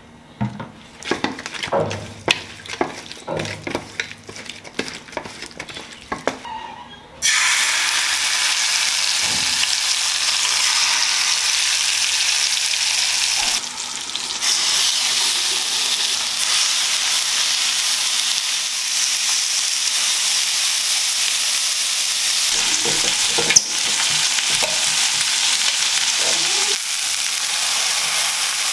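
Hands rubbing spices into raw chicken drumsticks on a steel plate: a run of short taps and rubs. About seven seconds in, chicken drumsticks start sizzling loudly as they fry in oil in a pan. The sizzle is a steady hiss, with a short dip around fourteen seconds and a single sharp click a little before twenty-four seconds.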